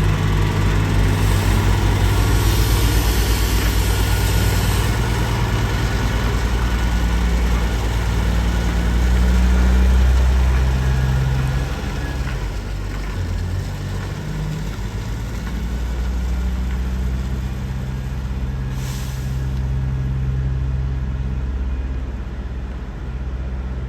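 Heavy diesel trucks running and passing, their low engine drone swelling about ten seconds in. A hiss of air comes in the first few seconds, and a short one comes near the end.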